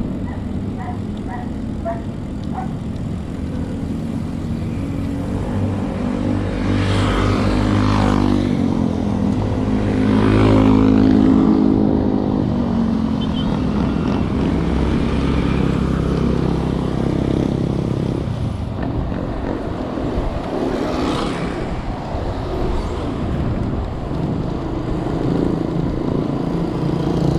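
Motor vehicle engine running on the road, with a steady noisy haze beneath it; the engine swells to its loudest about ten seconds in, its pitch bending as it goes.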